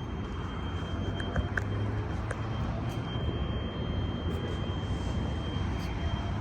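Steady low rumble of a running vehicle, with a few faint small clicks.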